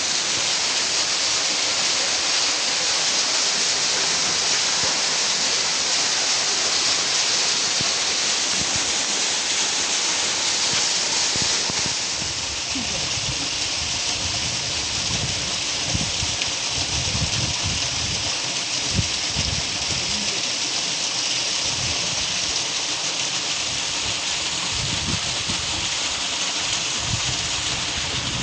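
A steady, even rushing hiss of outdoor noise, with gusts of wind buffeting the microphone in low thumps from about halfway in.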